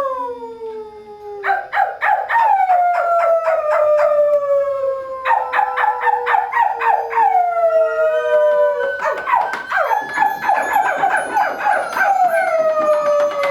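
A live group soundscape performance: several long, howl-like pitches overlapping and gliding slowly downward, over bursts of rapid, briefly ringing clicks.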